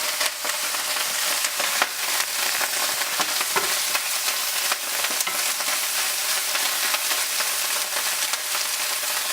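Canned mushrooms sizzling in hot oil in a frying pan, a steady hiss with frequent small pops and crackles as their water cooks out.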